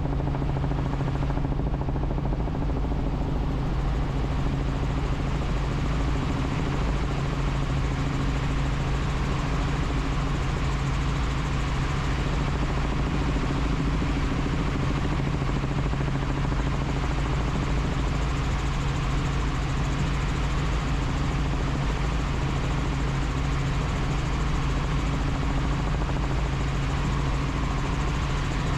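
Helicopter in flight: the rotor and turbine engine make a steady, unbroken drone with a low hum under an even rushing noise.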